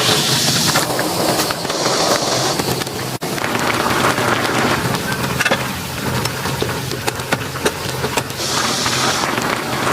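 Heavy rain falling steadily, with many small crackles and ticks through it and short spells of a higher hiss.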